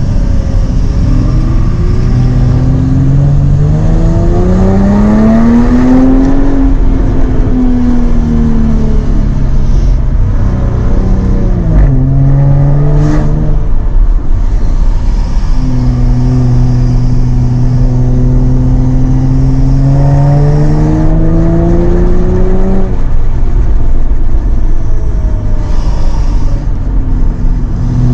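Jaguar F-Type sports car engine on the road, its pitch rising under acceleration, falling back, climbing again briefly, then holding a long, slowly rising note before it drops away near the end.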